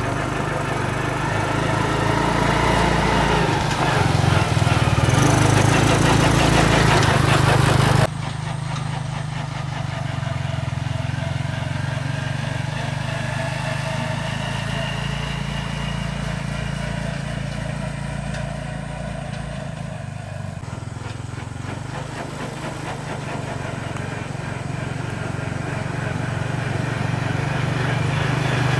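A small engine running steadily at an even speed. About 8 seconds in it abruptly becomes quieter, then carries on.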